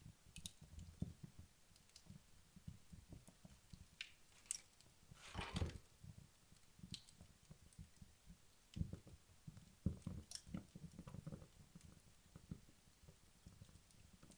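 Wood fire in a fireplace crackling faintly, with scattered sharp pops. There is a louder burst of crackle about five seconds in and a run of pops around ten seconds.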